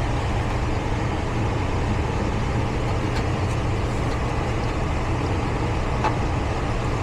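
Steady low mechanical hum with a rushing background, unchanging in level, and a faint click about six seconds in.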